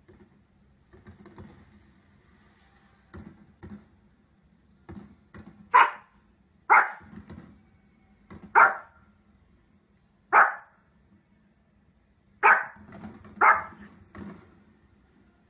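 A dog barking: a few soft sounds at first, then about six loud single barks, a second or two apart, from around the middle onward.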